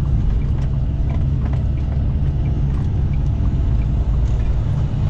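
Semi truck heard from inside the cab while driving: a steady low engine and road rumble with scattered light clicks and rattles.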